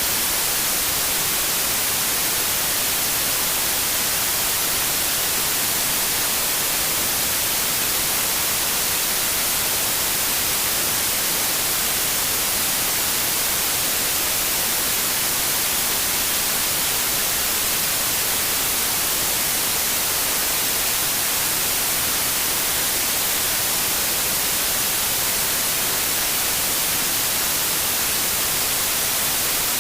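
Steady white noise: an even hiss across all pitches, brightest in the highs, constant in level without any change.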